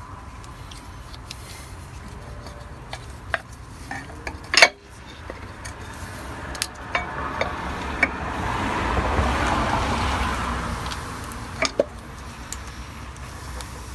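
Metal hand tools clinking and knocking against metal parts, with one sharp knock a little under five seconds in and a longer rushing noise that swells and fades after the middle.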